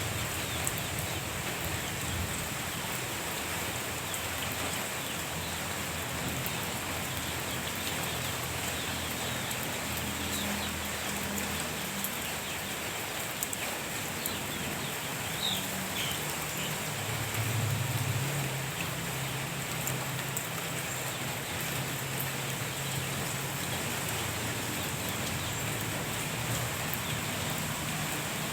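Steady rain falling, an even hiss with scattered drop ticks. A low hum comes in about a third of the way through and is loudest a little past the middle.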